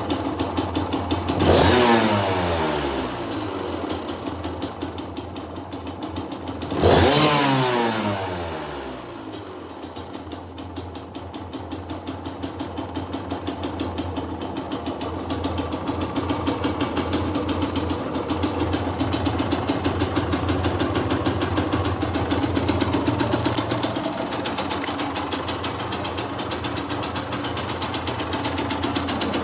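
Kawasaki KDX125SR's two-stroke single-cylinder engine blipped twice, once about a second and a half in and again about seven seconds in, each rev rising quickly and falling back. Between and after the blips it idles with an even pulsing beat.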